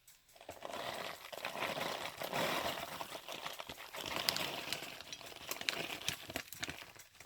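Plastic bag of shredded cheese crinkling and rustling as it is handled, with small irregular clicks and taps.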